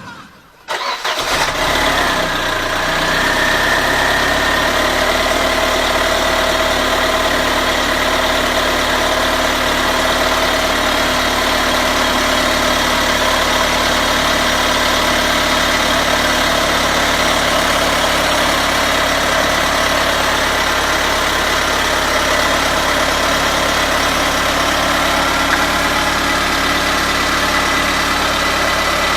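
Mercedes-Benz W210 E230's M111.970 2.3-litre four-cylinder petrol engine starting about a second in, then idling steadily. The engine wiring has just been replaced to cure unstable running caused by brittle, dried-out insulation.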